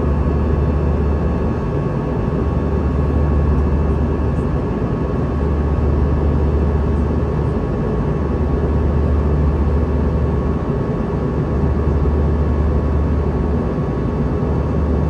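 Steady cabin noise inside an Airbus A320 airliner in flight: airflow hiss over a low engine drone that swells and eases slowly, with a faint steady high whine.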